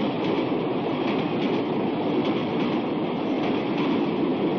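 Electric passenger train passing close by at speed: a steady rush and rumble of wheels on the rails that cuts in suddenly.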